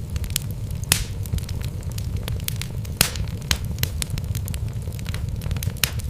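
Wood fire burning in a fireplace, with a steady low rumble under frequent sharp crackles and pops from the logs. The loudest pops come at about one second in, three seconds in and near the end.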